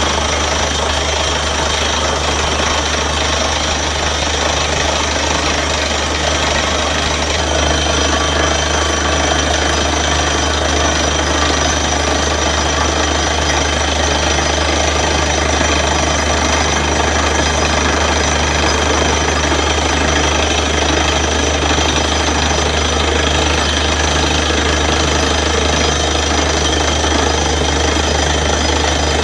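Borewell drilling rig running steadily: the air-driven down-the-hole hammer pounds at the rock with the compressor and engine going under it.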